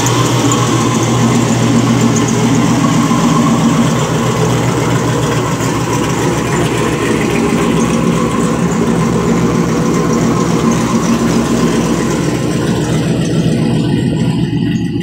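Twin-turbo 5.3 L LS V8 engine running steadily at idle, with no revving. Its upper range thins out near the end.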